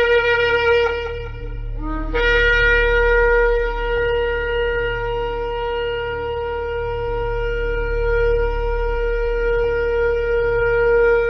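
Shofar blowing: a short blast, a brief upward slide about two seconds in, then one long steady note held for about nine seconds that leaps up in pitch at the very end. A steady low hum runs underneath.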